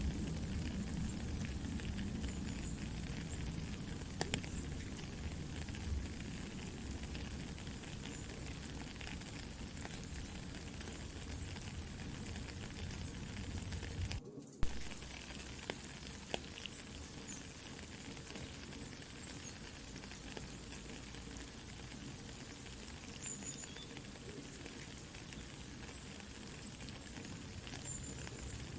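Soft steady rain mixed with a campfire crackling, with scattered small pops. About halfway through the sound drops out for a split second, then a sharp pop.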